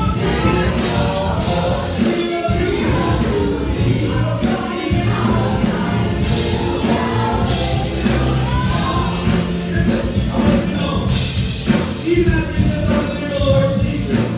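Gospel choir singing over a live band with bass and drums.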